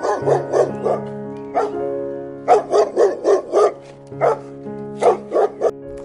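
A dog barking in quick runs, about fifteen sharp barks with short pauses between the groups, over background music with sustained notes.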